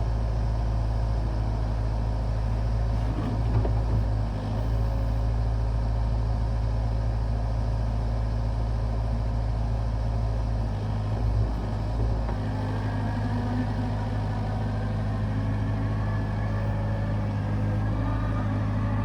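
Kubota U55 mini excavator's diesel engine running steadily under work. About twelve seconds in its note shifts and a higher wavering whine joins it.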